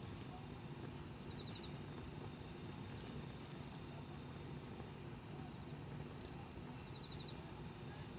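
Insects chirping outdoors: a regular run of short chirps and a high, thin, steady buzz that stops and starts every few seconds, over a low steady background rumble.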